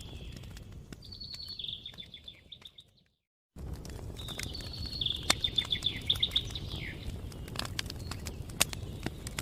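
A songbird sings two fast trilled phrases of rapidly repeated notes over the crackle and pop of a burning campfire. The whole sound fades out and drops to silence for a moment about three seconds in, then cuts back in, typical of an audio edit or loop point.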